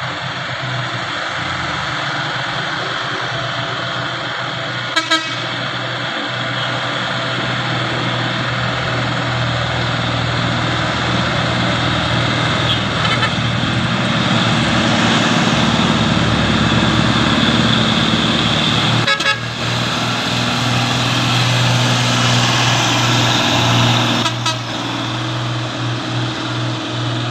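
Truck engine running hard and loud, with steady low droning tones under a dense roar that grows louder partway through. A few short, sharp clicks or knocks come at irregular intervals.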